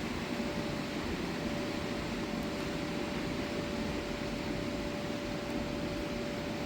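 Steady mechanical hum: an even hiss with one constant whine running through it.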